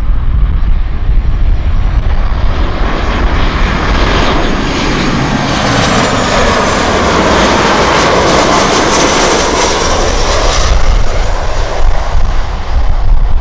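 Jet airliner passing low overhead: its engine noise swells to a peak in the middle, with a high whine that falls in pitch as it goes by, then fades. Strong wind rumbles on the microphone throughout.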